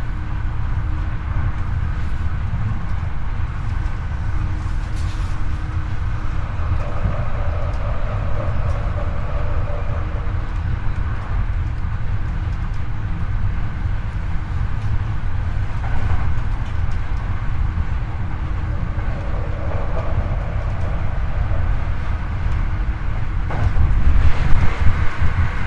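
Running noise inside a Hankyu 8300 series electric train car, picked up at floor level over a bogie: a steady low rumble of wheels on rail with faint steady whine above it. A louder stretch of rumble and knocks comes near the end.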